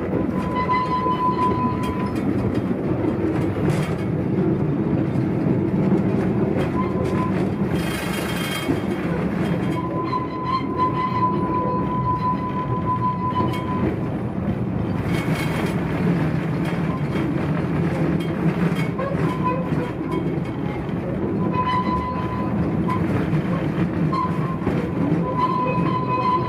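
The Akenobe Mine one-yen train's small wooden mine passenger car rolling along narrow-gauge track: a steady low rumble of wheels and body, with a thin high squeal that comes and goes several times. Twice a brief hiss cuts in partway through.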